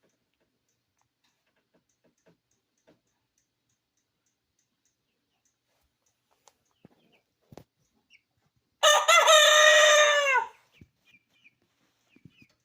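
A rooster crows once late on, a single loud cock-a-doodle-doo of under two seconds whose pitch drops at the end, among faint scattered ticks and taps.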